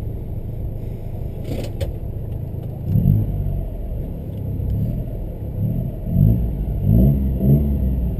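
Daewoo Tico rally car's small three-cylinder engine idling, heard from inside the cabin, then blipped up and down in repeated short revs from about three seconds in while held at the start. A brief click comes near two seconds in.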